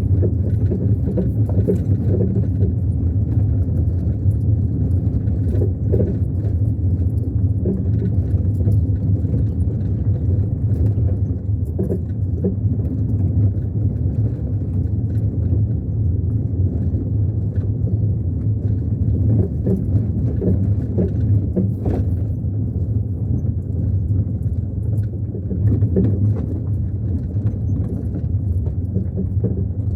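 Car driving: a steady low rumble of engine and tyres with frequent small rattles and knocks throughout.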